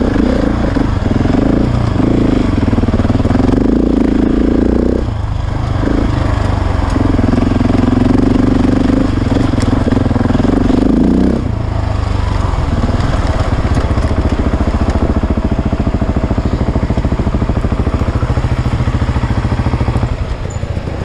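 KTM 690's single-cylinder engine under throttle on a dirt trail, its note rising and falling with the riding, then settling about halfway through into a steady, evenly pulsing low idle.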